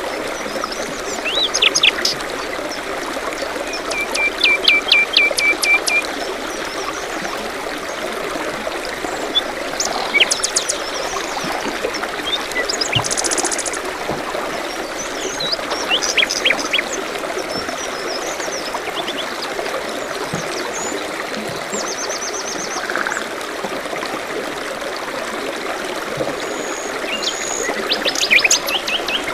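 A forest stream trickling steadily, with small songbirds chirping over it: a run of quick repeated chirps a few seconds in, a fast high trill near the middle, and scattered short calls throughout.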